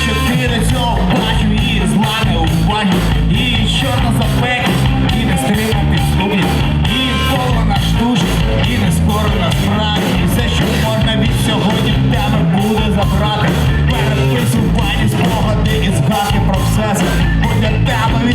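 Live rock band playing a song, loud and steady, with no words sung in this stretch.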